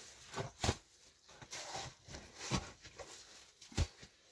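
A handful of short, sharp knocks at irregular intervals, with faint rustling between them. The strongest knocks fall just under a second in and about four seconds in.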